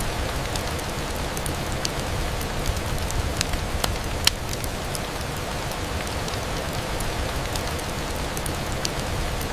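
Rain on a window: a steady, even hiss with scattered sharp ticks from drops, and one louder tick a little over four seconds in.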